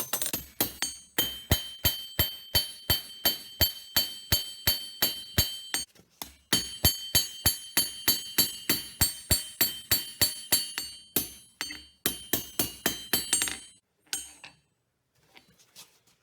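Hammer striking hot spring steel on an anvil, about three blows a second, each blow ringing. The blows pause briefly about six seconds in and stop near the end.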